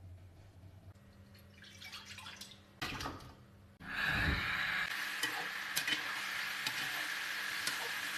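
Chicken frying in hot oil in a karahi, starting suddenly about four seconds in with a loud steady sizzle and scattered pops.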